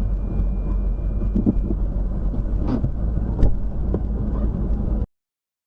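Steady low rumble of a car on the move, with a few faint clicks; it cuts off abruptly about five seconds in.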